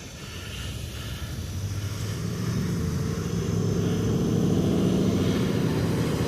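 Diesel locomotive engine running with a steady low drone, growing louder over the first few seconds as the train moves closer, then holding level.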